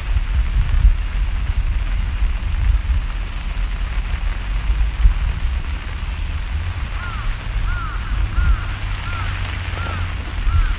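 Steady rain hissing, with a low rumble underneath. About seven seconds in, a short rising-and-falling chirp starts repeating, about two a second.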